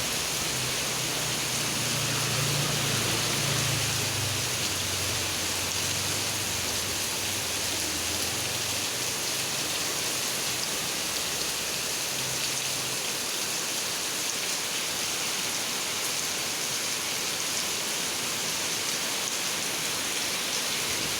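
Heavy rain falling steadily, a dense even hiss of rain on surfaces. A low drone sits under it for the first several seconds and fades out about a third of the way in.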